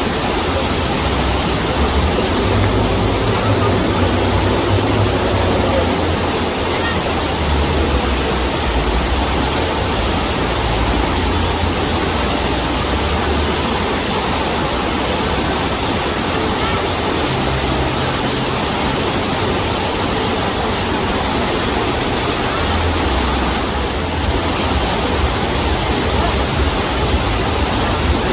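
Waterfall: a steady, loud rush of falling water with a churning low rumble underneath.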